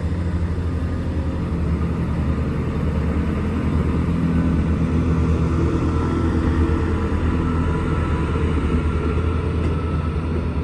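Diesel multiple unit's underfloor diesel engines running at the platform, a steady low engine drone that grows a little louder toward the middle.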